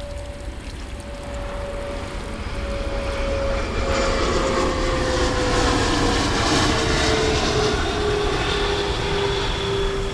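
Propeller airplane passing overhead: a steady engine drone whose pitch slowly falls. It swells louder about four seconds in.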